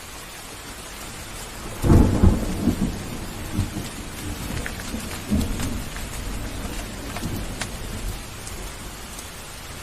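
Steady heavy rain, with a loud deep thunderclap about two seconds in that rumbles and rolls away over the next several seconds.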